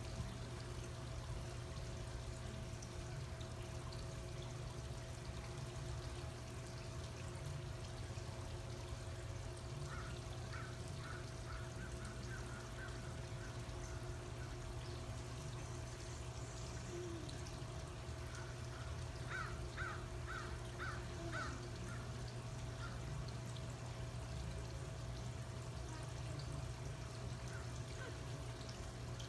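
A steady low hum with a faint rushing, water-like noise, and twice a bird calls a run of short, evenly spaced chirps, about two or three a second.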